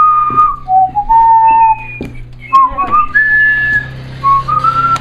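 A whistled tune: single clear notes stepping up and down in pitch, some held and some sliding, over a steady low hum.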